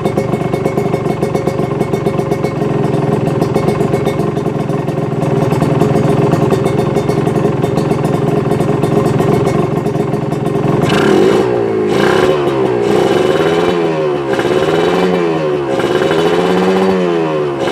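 Kawasaki Ninja RR 150 two-stroke motorcycle engine running through a half-baffled exhaust, holding a steady fast idle, then blipped about five times in a row from around eleven seconds in, each rev rising and falling again.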